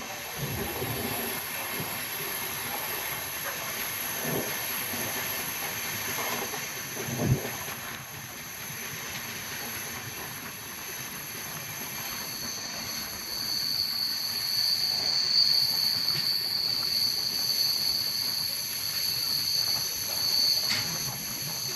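Indian Railways train running on the track, a steady hiss with a couple of knocks early on. A high steady whine comes in about halfway through and holds.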